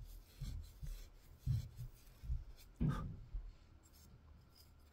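Hand scrubbing a straight razor's tang to clean off grime: a few short rubbing strokes and light knocks in the first three seconds, then quieter handling.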